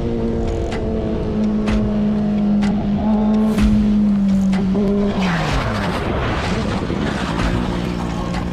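Motorcycle engine running at steady revs, then the revs drop about five seconds in while a rushing road and wind noise rises.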